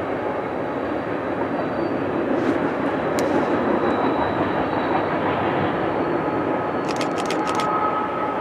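Train rolling past, a steady rumble of wheels on rail, with a few sharp clicks a few seconds in and a quick run of clicks near the end.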